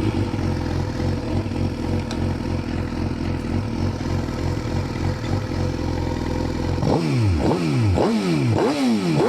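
Motorcycle engine catching and idling steadily, then revved with about five quick throttle blips from about seven seconds in, each one rising and falling back in pitch.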